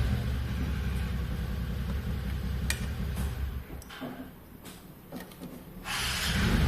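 A small engine running with a steady low rumble, with a sharp click a little before the rumble drops away about four seconds in. The engine comes back louder about six seconds in.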